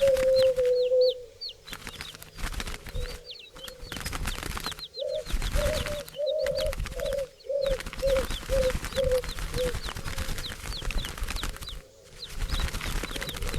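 Birds calling: a low, even-pitched call held for about a second at the start, then a run of about nine short notes in the middle that get shorter and fainter, over many quick high chirps from smaller birds.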